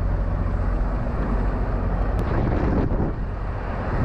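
Semi-truck's diesel engine idling steadily after parking, a continuous low hum. A brief click a little over two seconds in.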